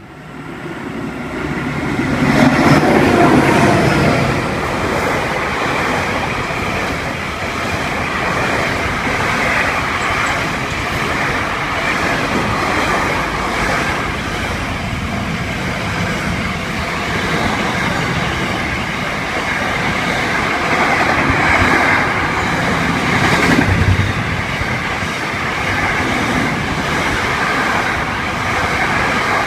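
Electric intercity trains running through a station: a loud, steady rumble of wheels on rails that builds up over the first two seconds and carries on throughout.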